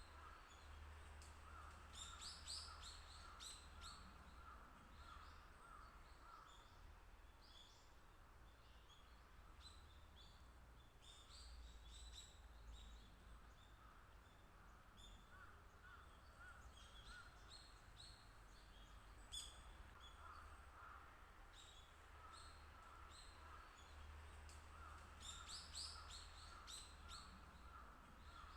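Faint wild bird calls: clusters of short high chirps that come and go, over runs of a repeated lower note at about three to four a second and a steady low background rumble.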